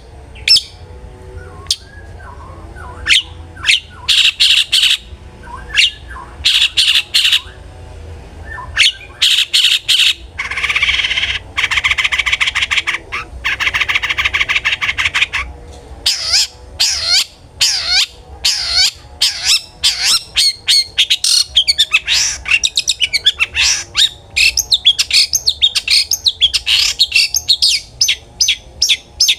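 Long-tailed shrike (cendet) in full song. It gives sharp separate calls, then a harsh rasping chatter lasting about five seconds a third of the way in, then a fast run of quick rising and falling notes.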